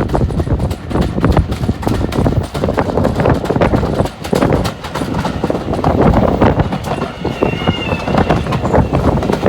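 A train running, with a dense, rapid clattering over a low rumble.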